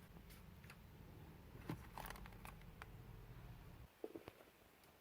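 Near silence: a faint low hum with a few soft ticks, the hum cutting off about four seconds in.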